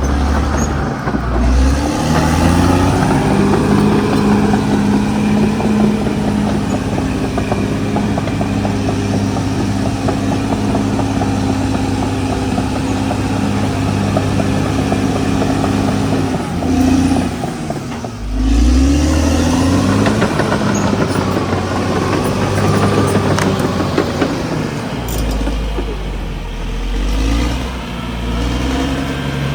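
Caterpillar D6R XL bulldozer's diesel engine running hard at high revs, with a rattling clatter. The revs climb in the first couple of seconds, sag and pick back up about eighteen seconds in, and drop low again a few seconds before the end.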